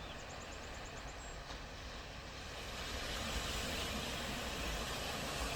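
Ocean surf washing onto a beach, a steady rush with a low rumble that swells louder about halfway through.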